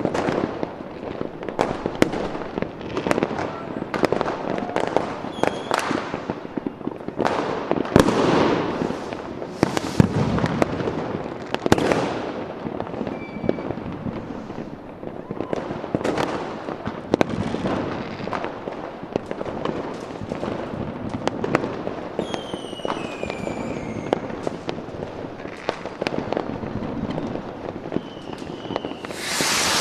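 Fireworks going off without a break: a dense run of sharp bangs and crackles. About three-quarters of the way in come a few whistles falling in pitch, and right at the end a loud hiss.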